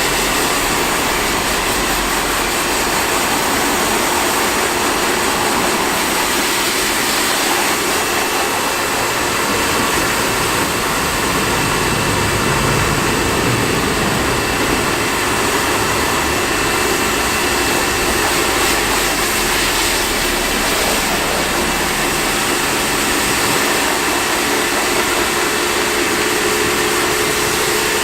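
Pressure washer running, its motor humming steadily under the hiss of a continuous water jet.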